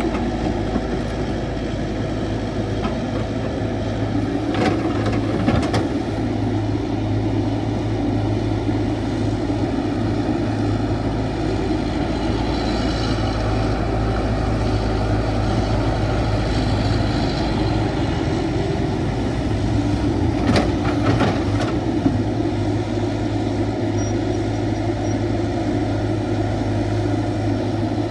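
CAT 312 excavator's diesel engine running steadily while it digs, with a few short clanks about five seconds in and again about twenty-one seconds in.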